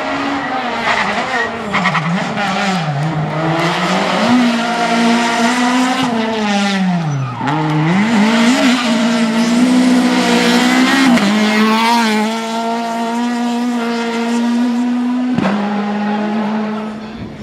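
Rally car engine at full effort through a stage. The revs fall and climb again several times, dipping lowest about seven seconds in, then hold steady for several seconds before dropping sharply near the end.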